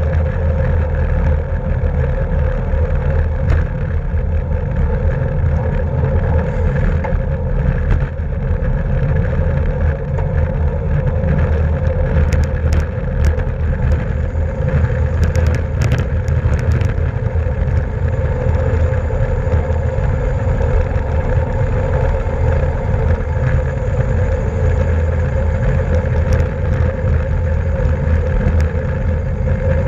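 Steady rush of wind and road noise from a racing bicycle at speed, heavy in the low end. Several sharp clicks come between about 12 and 17 seconds in.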